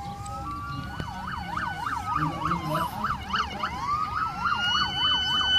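Several emergency-vehicle sirens sounding at once as the vehicles arrive: a fast yelp of about four sweeps a second overlaps slow rising-and-falling wails. The sirens grow louder as they approach.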